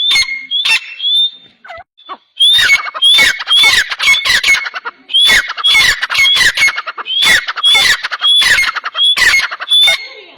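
Birds making loud, sharp squawking calls in a rapid series, about two or three a second, with a brief pause about two seconds in.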